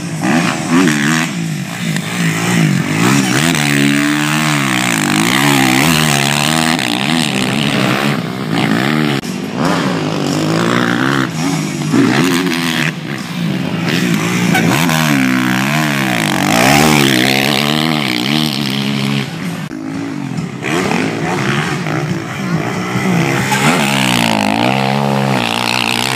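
Motocross bikes' engines revving up and down repeatedly as they ride the track, the pitch rising and falling every second or two.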